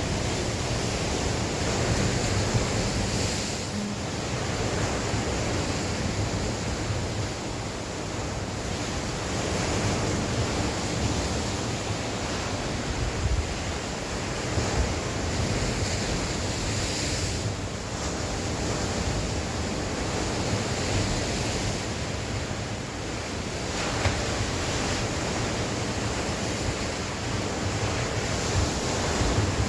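Sea waves washing onto the shore in a continuous surging wash that swells and eases every few seconds, with wind blowing and a low rumble of wind on the microphone.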